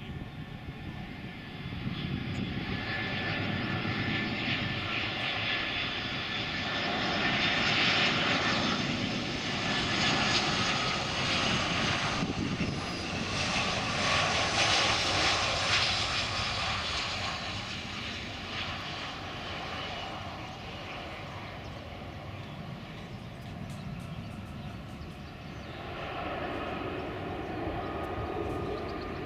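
Jet engines of an Airbus A320-214 (CFM56 turbofans) passing, a steady rushing noise with whining tones that swells to its loudest around the middle and then fades, rising again near the end.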